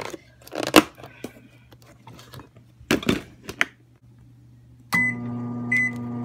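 A few knocks and clatters, then a microwave oven keypad beep about five seconds in as the oven starts running with a steady low hum, and a second beep shortly after.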